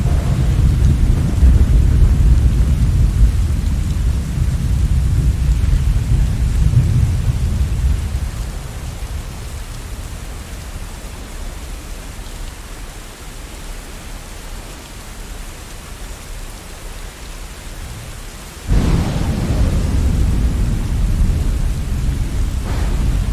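Steady rain with rolling thunder: a long deep rumble that fades away over the first several seconds, then a fresh thunderclap breaking in suddenly near the end and rumbling on.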